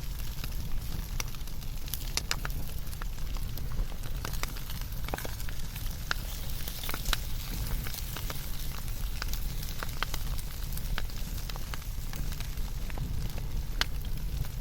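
Wood fire burning, crackling with frequent irregular sharp pops over a steady low rumble.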